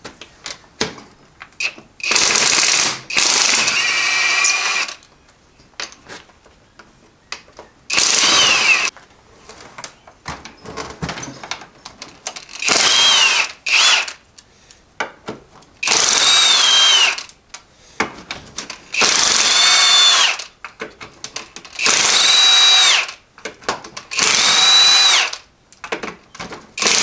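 Impact wrench hammering in about ten short bursts of one to two seconds each, its motor pitch rising as each burst starts and falling as it stops, breaking loose the bolts that hold the halves of an NP271F transfer case together. Light clicks and clinks between the bursts.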